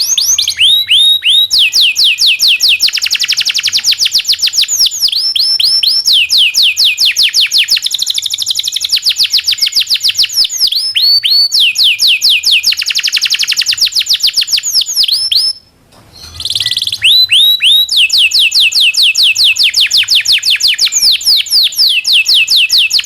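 Domestic canary singing long rolling trills: fast runs of repeated down-slurred whistled notes, switching from one trill to another every second or two, with a brief break about two-thirds of the way through.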